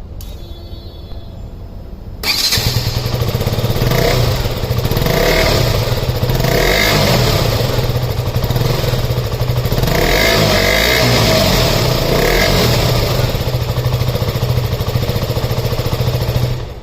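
KTM RC 125's single-cylinder 125 cc engine starting about two seconds in and running through its exhaust, with a few short throttle blips, then cut off near the end.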